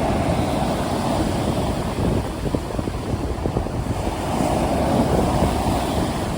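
Sea waves breaking and washing on the shore with wind, a continuous low rushing that swells about four seconds in.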